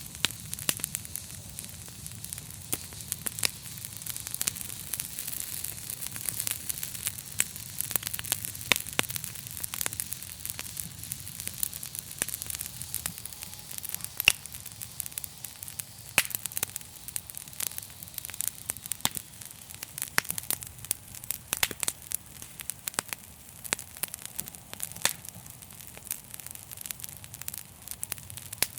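Wood fire burning in a fireplace: dense irregular crackles and pops over a steady hiss and a low rumble of the flames.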